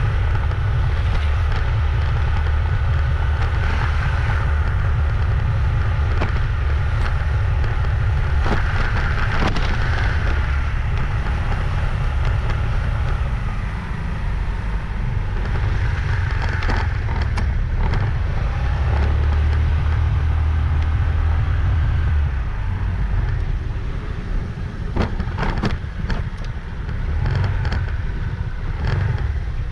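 Riding a motorbike: wind rumbling on the microphone over the engine and road noise, steady at first and easing off and wavering in the second half, with a few sharp knocks near the end.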